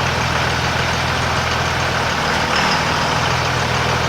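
24-valve Cummins 5.9 L inline-six turbo-diesel in a 2002 Dodge Ram idling steadily.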